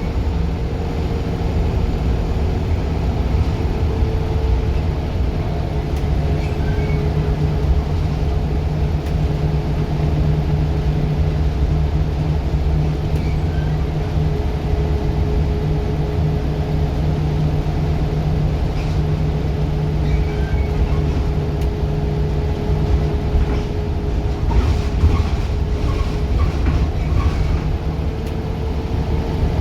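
Scania Wright Solar single-deck bus's diesel engine running at a steady, even speed with a low rumble, easing slightly about two-thirds of the way in, with a few clicks near the end.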